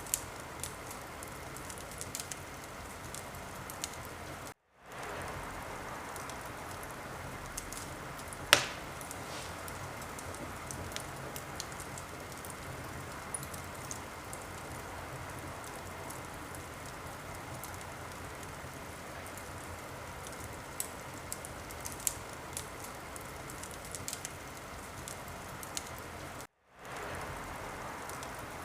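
Wood fire crackling in a fireplace: a steady hiss with scattered small pops and one sharp, louder pop about eight seconds in. The sound drops out completely for a split second twice.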